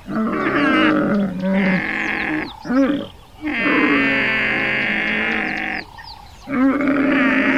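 Dromedary camels calling: four long, pitched calls with short breaks between them, the longest lasting over two seconds in the middle.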